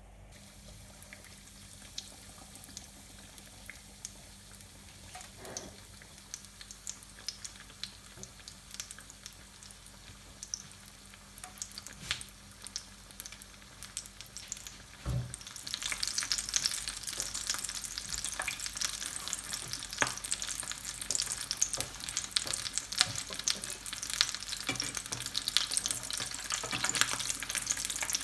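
Breadcrumb-coated bread-and-potato sandwich shallow-frying in oil in a nonstick pan. Faint scattered crackles at first; about halfway through, the oil sizzles much louder, with dense popping.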